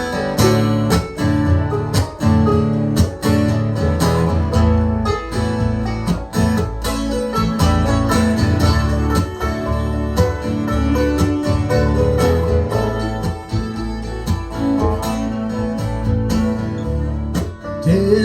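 Live instrumental song intro: strummed acoustic guitar over low bass notes with a steady beat, leading into the first sung verse.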